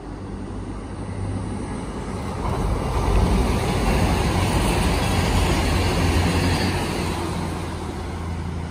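CrossCountry Class 221 Super Voyager diesel multiple unit passing at speed. Its engines give a steady low hum under the rush of wheels on rail, which swells about two and a half seconds in, stays loudest for a few seconds as the train goes by, then eases off as it moves away.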